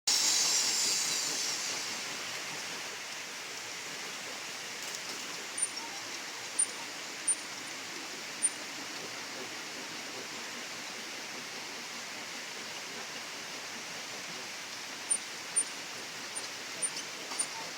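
Steady rushing of flowing water, louder and hissier for the first two seconds. Short, high-pitched ticks come several times, in two clusters about six seconds and fifteen seconds in.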